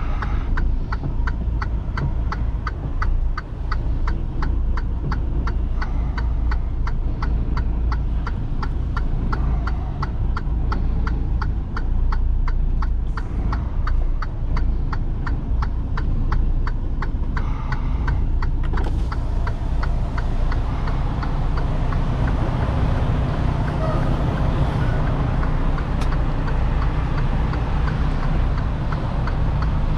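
Semi truck's diesel engine running low inside the cab, with a rapid, regular clicking of about two to three a second. The clicking stops about 18 seconds in, and a steady hiss sets in.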